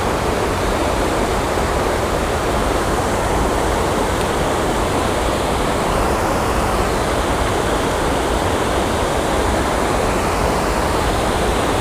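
Water pouring over a small dam spillway, a steady, unbroken rush.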